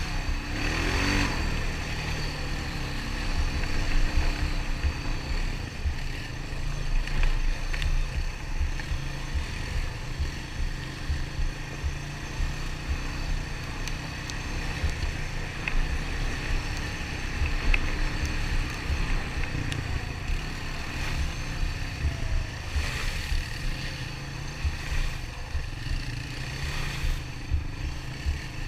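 ATV engine running steadily under riding on a trail, a low continuous rumble with the rattle of the machine over rough ground.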